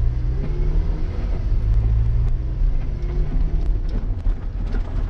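Toyota MR2 Spyder's 2ZZ-GE four-cylinder engine running at low revs, heard from inside the cabin as the car pulls away slowly. Scattered sharp ticks near the end, gravel under the tyres.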